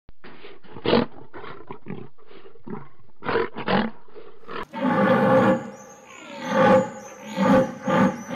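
Lion roaring: a series of short, deep calls, then about halfway through a sudden change to a louder run of repeated calls about once a second, with high chirps above them.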